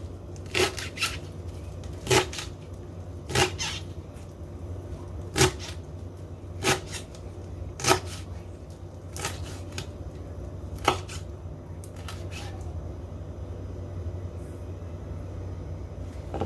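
Kitchen knife striking a cutting board while chopping fresh coriander leaves: single sharp knocks about once a second, irregular, stopping about twelve seconds in. A steady low hum runs underneath.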